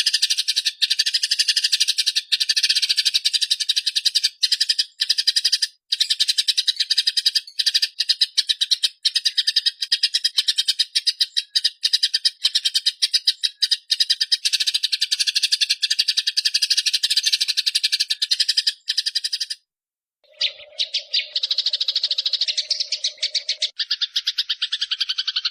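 Eurasian tree sparrows chattering in fast, continuous rolling chirps, the excited fighting call. The chatter breaks off briefly about twenty seconds in and resumes, with a steady low hum for a few seconds after the break.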